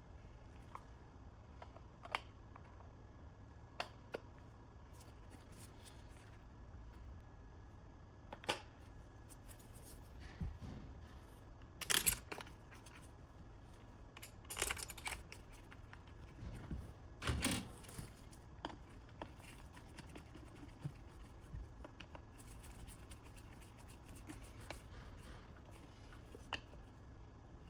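Scattered light clicks and knocks, a few every several seconds, the loudest two about halfway through, over a low steady hum.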